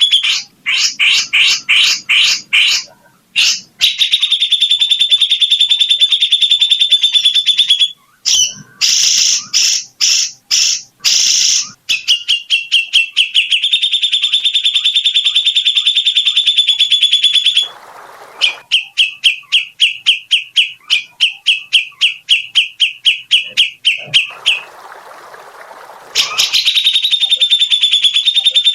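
A small songbird singing long, rapid, high-pitched trills of evenly repeated notes, broken by short pauses; in the second half a run of slower pulsing notes, about four a second, ends in a brief hiss before the fast trill resumes.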